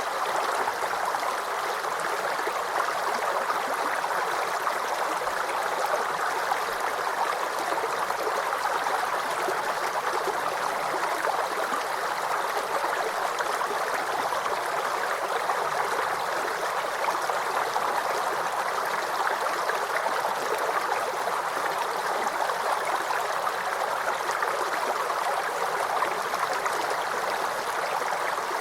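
Small forest creek babbling and gurgling over stones, a steady, unbroken flow of running water.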